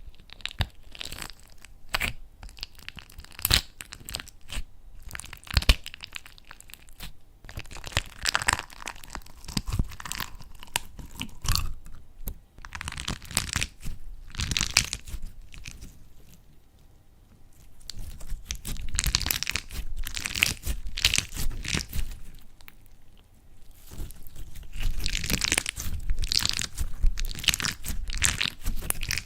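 Slime being squeezed, pressed and pulled by hand, giving crackling, crunching sounds. A few separate sharp snaps come in the first seconds, then longer bouts of dense crackling that swell and fade.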